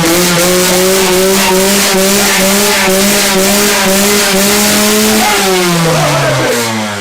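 Dirt bike engine held at high revs, its pitch creeping slowly upward, then falling away as the throttle is let off about five seconds in.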